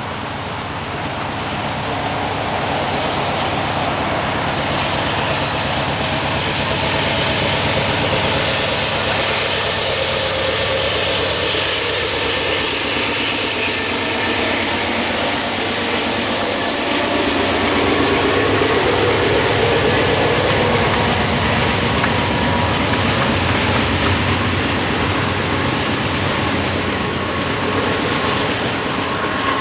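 Long double-stack container freight train passing close by, a steady rumble and clatter of wheels on rails mixed with diesel locomotive engine noise. It swells over the first few seconds as the train comes by, then holds steady.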